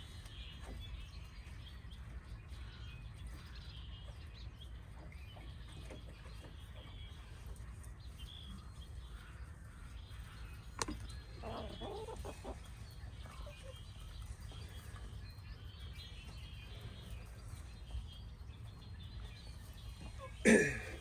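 Backyard hens clucking now and then, with a short run of clucks about halfway through, over a steady low wind rumble on the microphone. Near the end comes a loud, brief sound that sweeps down in pitch.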